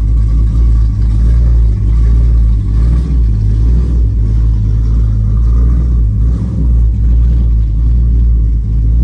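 Hemi V8 engine of a Dodge SRT8 running with a steady, deep, choppy rumble and no revving.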